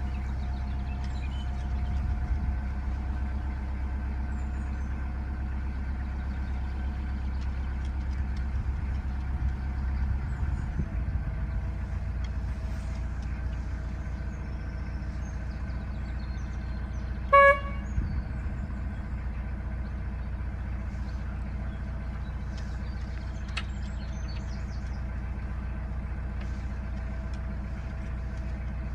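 Narrowboat diesel engine running steadily under way, a little stronger for the first ten seconds or so, with a single short horn toot about two-thirds of the way through.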